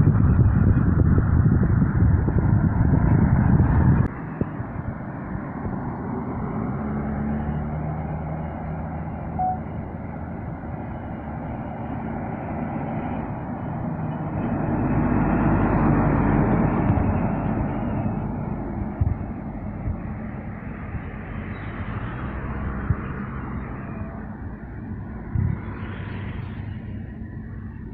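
Heavy trucks driving past on a road, engines and tyres rumbling. A loud close pass cuts off abruptly about four seconds in, and another vehicle swells past around the middle.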